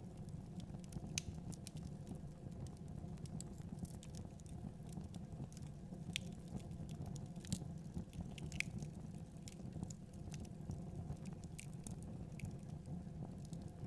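Fire in a fireplace crackling, with irregular sharp pops scattered throughout, a few louder ones standing out, over a steady low rumble of the flames.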